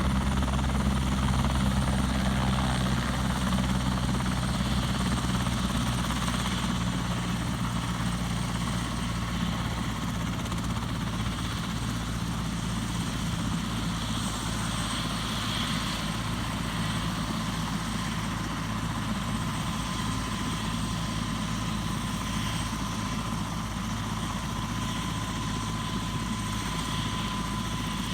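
Helicopter running continuously, with a deep steady rotor beat and a thin steady whine above it. The low beat weakens after about ten seconds while the whine holds on.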